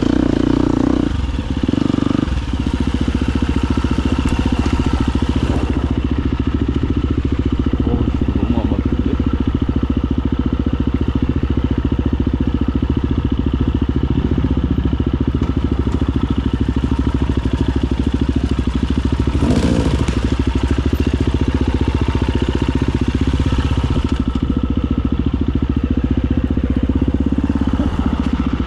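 Husqvarna FE250 single-cylinder four-stroke enduro motorcycle engine running under throttle, easing off briefly about a second in. A short knock stands out about twenty seconds in.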